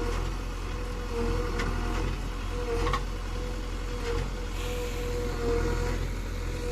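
JCB 3DX backhoe loader's diesel engine running steadily under work, with a constant high whine that swells now and then and a couple of sharp knocks from the machine.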